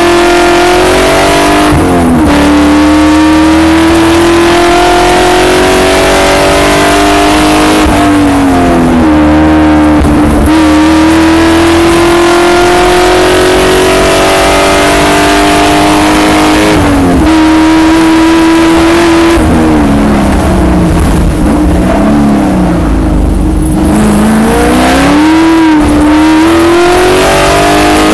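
Spec Corvette's V8 race engine heard from inside the car under hard acceleration, pulling up through the gears with several sharp drops in pitch at the upshifts. About two-thirds of the way through it lifts and the pitch weaves down and up through downshifts under braking, then it climbs again on the throttle.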